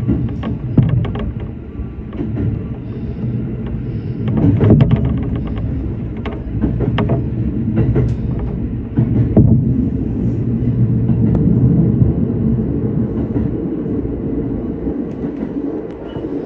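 Shinano Railway SR1-series electric train running, heard from inside the car: a steady low rumble of wheels on rail, with repeated clicks and knocks as the wheels cross rail joints and points.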